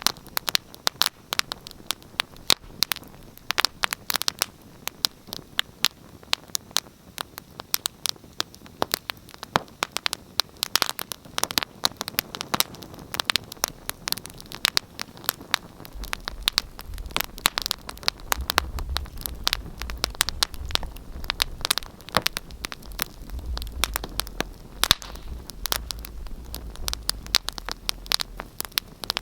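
Wood fire burning in a fireplace, crackling with many irregular sharp pops and snaps over a soft hiss. A low rumble joins in about halfway through.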